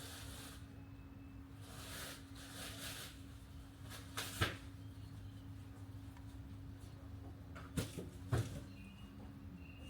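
Robotic lawn mower running with a steady low hum and a thin, even tone. A few soft swells of hiss come in the first three seconds, and sharp knocks sound once about four seconds in and twice close together around eight seconds.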